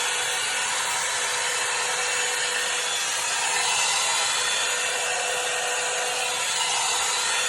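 Hot air brush (hair dryer brush) running: its fan blowing with a steady rush of air and a steady motor hum, while it is drawn through short hair to dry it.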